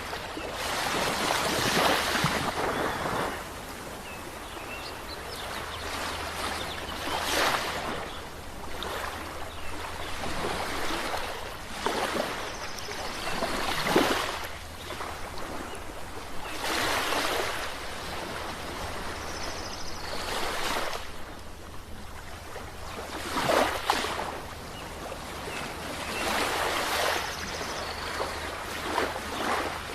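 Sea waves breaking and washing on the shore, a swell of surf about every three to five seconds, over a steady low rumble.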